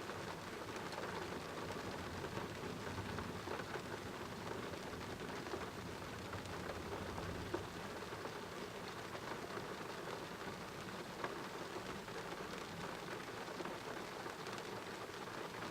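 Steady rain of a thunderstorm pouring down, with a low rumble of thunder in the first half and a couple of sharp ticks of drops striking something hard.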